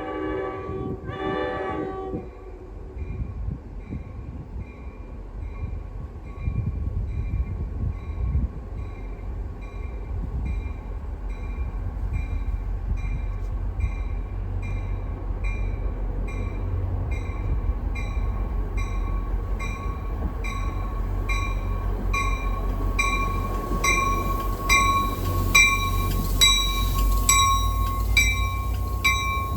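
An NJ Transit train sounds its horn briefly at the start, then a bell rings steadily at about one and a half strokes a second while the low rumble of the approaching train grows louder.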